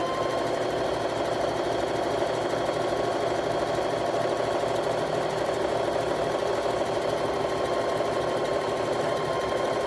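Electric sewing machine running continuously at a steady high speed, stitching a long seam through quilt pieces with an even motor whine.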